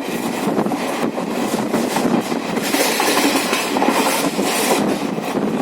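Train running on the rails: a steady rattle of carriage and wheels with many small clicks, and a hiss that swells about halfway through.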